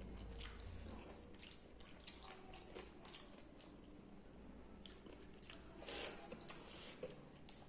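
Close-miked chewing and wet mouth sounds of a person eating water-soaked rice (pakhala) with fried bitter gourd: soft squelches and lip smacks with many small clicks, busiest about two seconds in and again near six seconds.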